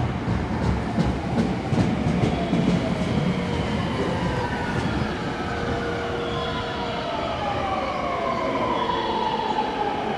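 Electric commuter train running into the station: a run of sharp wheel clicks over the rails in the first few seconds, then its motors whine in a steadily falling pitch as it slows.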